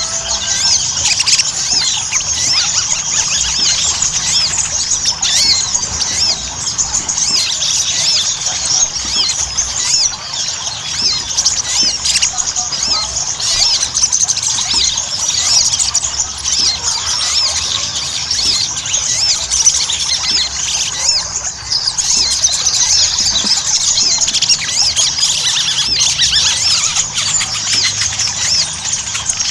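Sogon (sogok ontong, the little spiderhunter) calling non-stop: a dense stream of rapid, high, sharp chirps. This is a bird-keepers' lure recording, played to prompt caged sogon to sing.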